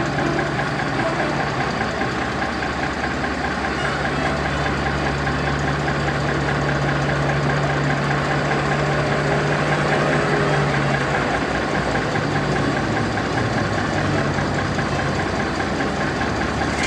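A large truck engine idling steadily.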